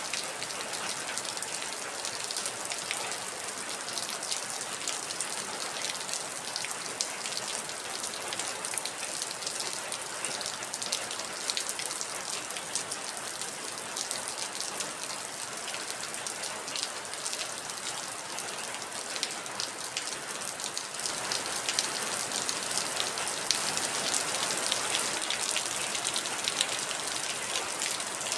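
Heavy rain falling steadily, with many individual drops ticking sharply through the hiss of the downpour. It gets a little louder about two-thirds of the way through.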